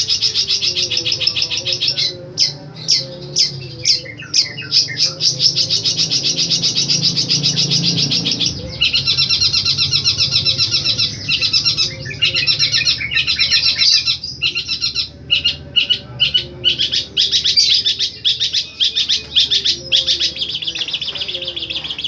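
Long-tailed shrike singing loudly: fast, dense trills and rapidly repeated high notes in long phrases, broken by short gaps.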